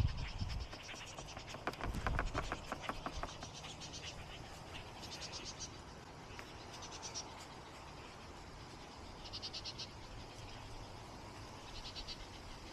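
Dry scratchy strokes of a scruffy Japanese ink brush dragged over rough watercolour paper during the first few seconds. Short, high, evenly pulsed trills from a small calling creature recur every couple of seconds.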